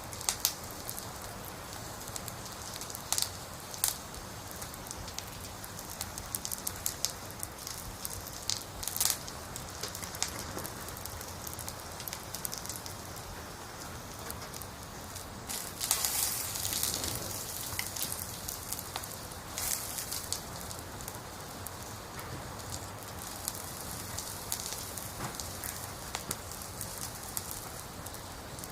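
Steady rain falling, with irregular sharp ticks of drops striking hard surfaces close by, heavier for a moment about halfway through.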